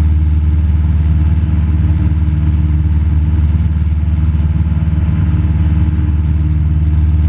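Cessna 172 Skyhawk's engine and propeller droning steadily in cruise, heard from inside the cabin.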